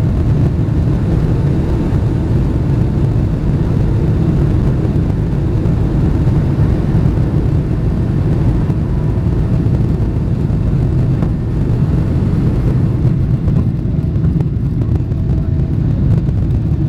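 Boeing 777-300ER's GE90 jet engines during takeoff: a steady, loud low rumble that holds level throughout, with faint tones above it.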